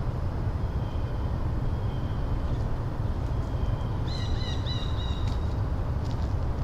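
Birds chirping in short high calls, with a quick run of sharper chirps about two thirds of the way in, over a steady low rumble.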